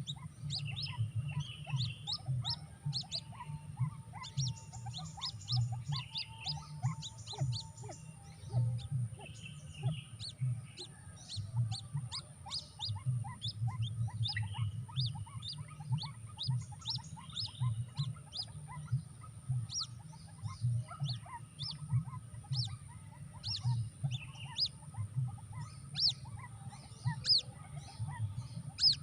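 Bird chirping: a long run of short, high, sharp peeps, about two or three a second, over a steady low hum and a constant thin high whine.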